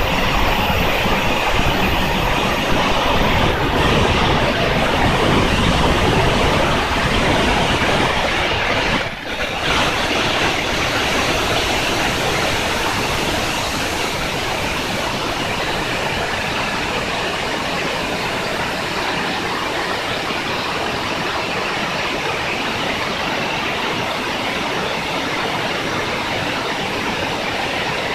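RAM-1000 small turbine engine running with a loud, steady rushing noise. A thin high whine drops out about three seconds in, and the sound dips briefly about nine seconds in before settling steady again.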